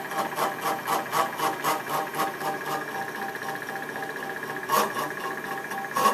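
Stepper motors of a DIY CNC machine whining at a steady pitch as it drives a Sharpie, with light regular ticking about four times a second through the first half and a louder click just before the end.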